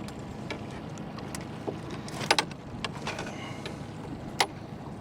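A few sharp clicks and knocks of a fish and tackle being handled in a fishing boat, over steady low background noise. The loudest knocks come about two seconds in and again near the end.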